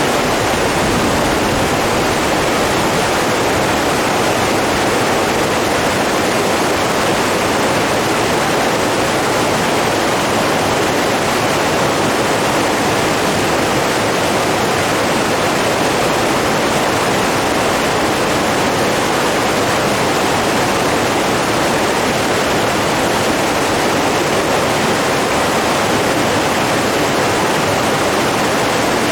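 Steady, unbroken rush of flowing water, even in level throughout.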